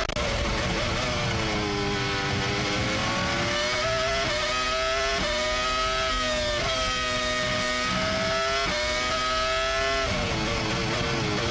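Formula 1 V10 engine heard onboard, its high-pitched note sagging early on and then climbing hard through the gears, with five sharp drops in pitch as it upshifts under full acceleration.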